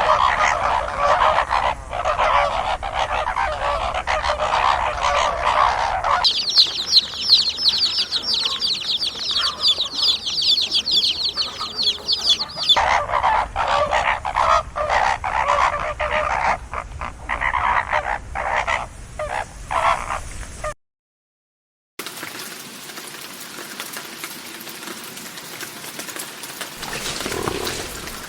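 A flock of domestic fowl calling over one another, in cut-together clips: dense overlapping calls, a stretch of rapid high-pitched peeping in the middle, more dense calling, then a brief dropout and a quieter stretch.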